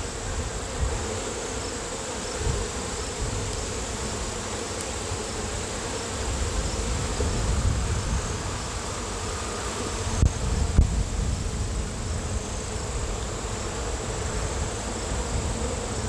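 Honeybees buzzing in numbers around an opened hive, a steady hum throughout. A couple of short knocks stand out about ten seconds in.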